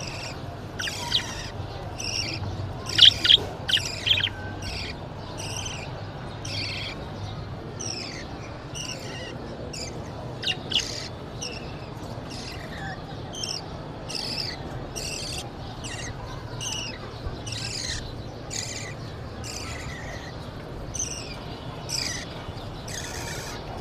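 Birds chirping: short, high, falling chirps repeated about once or twice a second, with a few louder, sharper calls about three seconds in and again near the middle, over a faint steady low hum.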